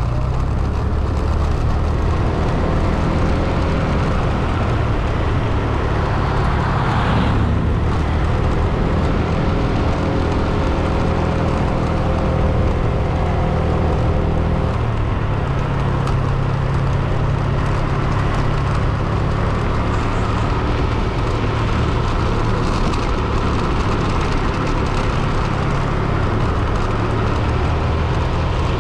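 Car driving, with steady engine and road noise; the engine's pitch shifts about halfway through, and a brief rush of noise comes about seven seconds in.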